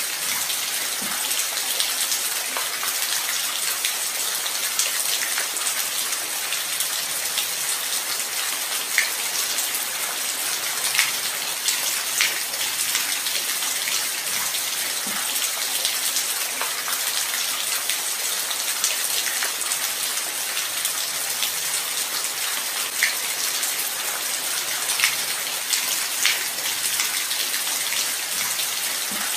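Light rain falling steadily as an even hiss, with individual drops ticking sharply here and there.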